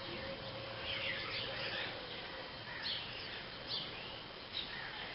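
Birds chirping: short, high, downward-sliding chirps about once every second or so, over a steady background hiss.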